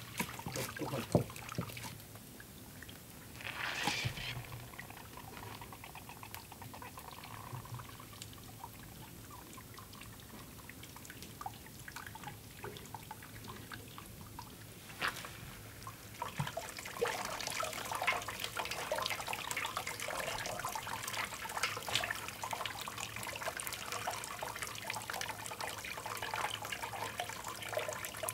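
Liquid pouring and trickling, with a brief louder rush about four seconds in and a busier spell of splashing and dribbling in the second half.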